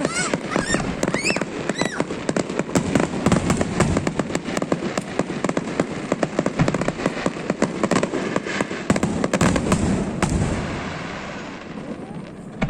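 Aerial fireworks bursting, with dense rapid crackling and popping and a few short whistles in the first couple of seconds. The crackle thins and dies away in the last couple of seconds.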